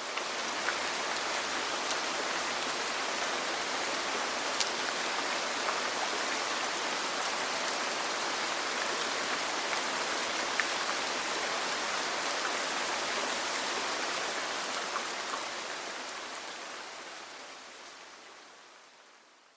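Steady rain falling on a roof, with a few faint ticks of drops. It fades in at the start and fades out over the last few seconds.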